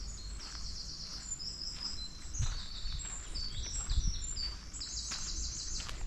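Small songbirds chirping and singing in quick runs of short, high notes, over the soft thuds of footsteps on a path, the loudest about four seconds in.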